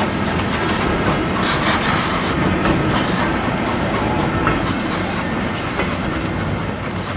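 A train of passenger or freight cars rolling past close by, its wheels clattering over the rail joints in a steady run of clicks.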